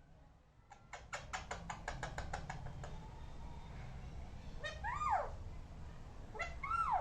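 Pet parrot making a rapid run of sharp clicks, then two short pitched calls: the first sliding down in pitch, the second rising and then falling.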